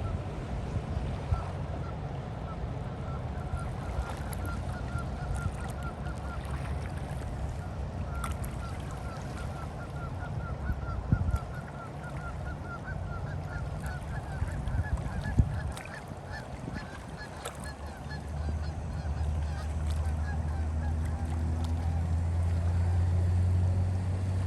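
The cruise ship Octantis sounds one long, deep, steady horn blast as a salute, starting about three quarters of the way in. Before it, over a low rumble of wind, a bird calls in a quick series of short high notes that rise slightly in pitch.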